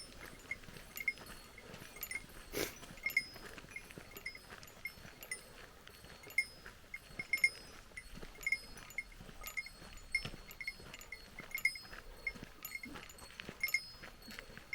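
A small metal bell jingling in short clinks, roughly twice a second in an uneven, walking-pace rhythm, with one sharp knock about two and a half seconds in.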